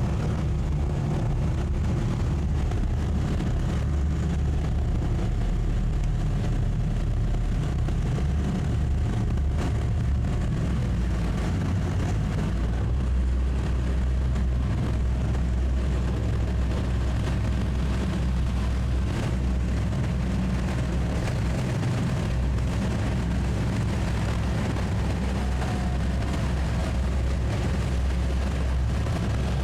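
Twin Suzuki 200 hp outboard motors on a towboat running steadily under heavy load while towing a large yacht, with the hiss of wind and water over it.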